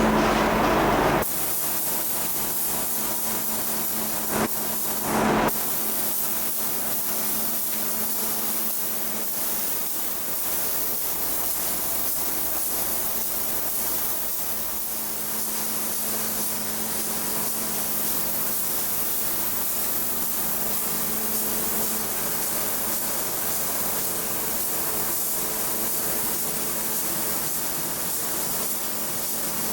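Steady hissing noise, strongest in the high range, with two brief louder bursts about four and five seconds in. A louder humming machine noise cuts off about a second in.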